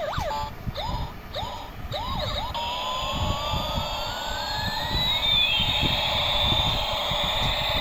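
Electronic sound effects from a battery-powered toy army helicopter: a run of short chirping blips, then a long siren-like whine sweeping up in pitch while a second tone sweeps down. A low, uneven rattle runs underneath.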